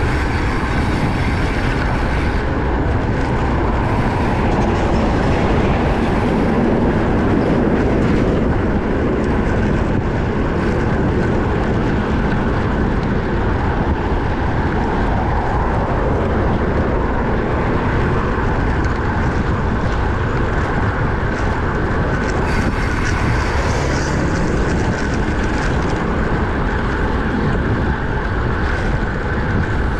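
Steady rushing noise of wind buffeting the microphone, with tyre noise from a road bike riding at speed.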